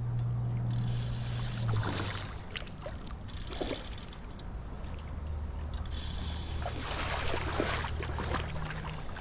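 Creek water splashing and sloshing as a big hooked smallmouth bass fights near the surface, with scattered short splashes and a low steady hum that comes and goes.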